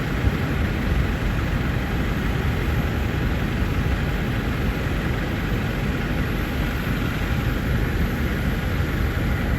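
Jet aircraft engine running with a steady, loud rushing noise that has a deep low end and no clear changes.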